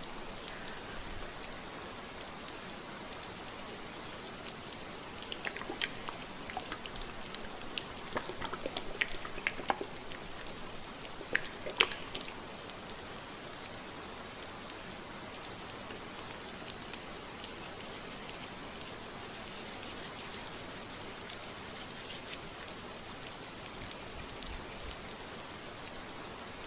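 Steady rain sound throughout. Over it, from about five to twelve seconds in, come close crackles and rustles of fingers running through hair, the loudest near the end of that stretch.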